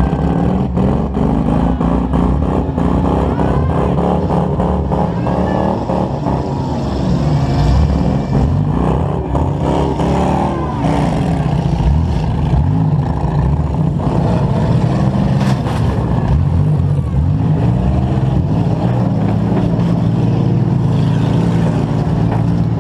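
A demolition derby compact car's engine running close-up and revving, its pitch rising and falling as the car manoeuvres, with many sharp clicks and knocks over it.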